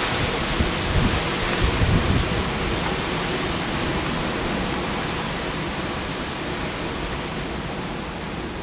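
Typhoon-force wind making a steady rushing hiss. Gusts buffet the microphone with low rumbles during the first two seconds, and the hiss eases slightly toward the end.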